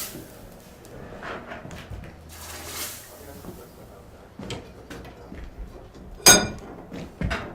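Blacksmith's hammer striking metal: one loud, ringing clang about six seconds in, then a second sharper knock, after a stretch of soft rushing noise and small clinks.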